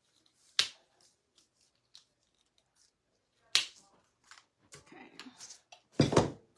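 Sharp clicks and light taps of small craft pieces being handled and set against a frame on a tabletop, with a louder knock and rustle just after six seconds.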